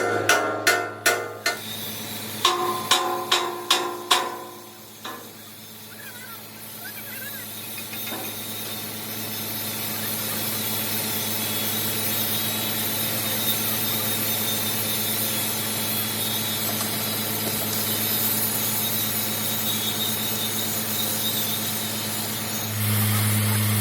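Hammer blows on steel plate, about ten ringing strikes in two quick runs in the first four seconds. Then a steady hiss over a constant low hum, with the hum getting louder near the end.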